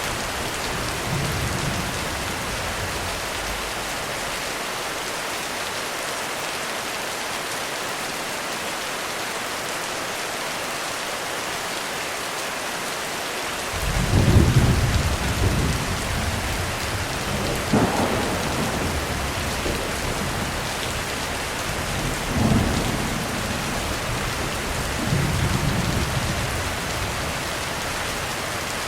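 Heavy rain falling steadily, with thunder breaking in about halfway as a sudden loud rumble, followed by several more rolls of thunder every few seconds.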